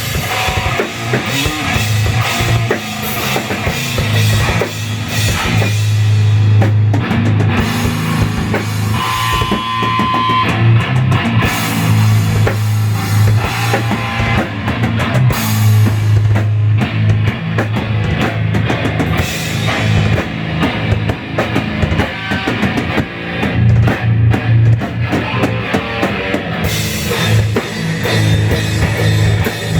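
Improvised heavy-metal jam on drum kit and guitar: steady drum hits under long held low notes.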